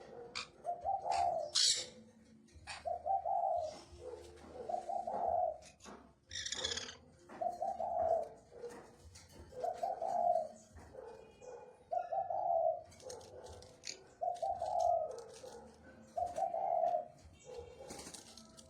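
A bird cooing: about eight short, low coos, one every two seconds or so, with a few short hissy noises in between.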